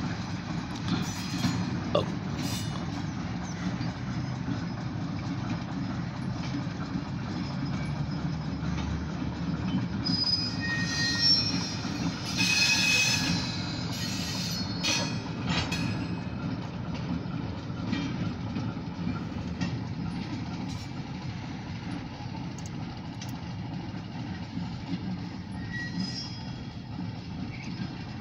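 Short diesel freight train, a locomotive with one covered grain hopper, rolling slowly past with a steady low rumble. A brief high wheel squeal comes about halfway through. Heard from inside a car.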